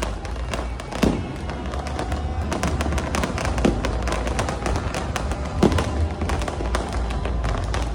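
Aerial fireworks bursting, with dense crackling throughout and three louder bangs spaced a couple of seconds apart. Music with a heavy bass plays underneath.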